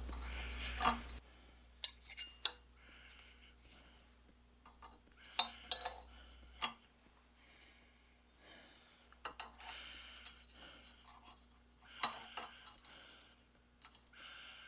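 Scattered light metal clinks and scrapes as a rusted nut and bolt on a cast-iron forge part are handled and tried by hand, in small groups about two, five and a half, nine and twelve seconds in.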